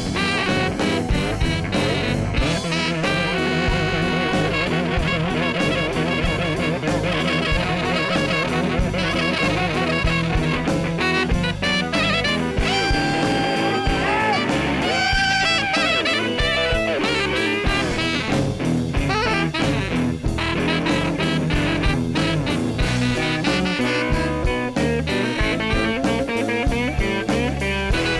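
Blues band playing an instrumental passage with a steady swinging beat and no singing.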